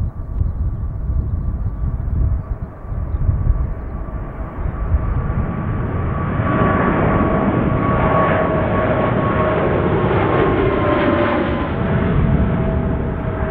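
Boeing 777's GE90 turbofans at takeoff power: a jet roar that grows louder about six seconds in and holds, with a steady whine from the engines that drops slightly in pitch near the end. Wind buffets the microphone with an uneven low rumble in the first part.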